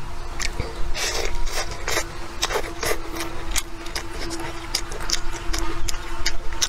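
Close-miked chewing and mouth sounds of someone eating a chewy rolled pancake filled with spicy shredded potato: many short, wet clicks and smacks at an irregular pace, over a steady low hum.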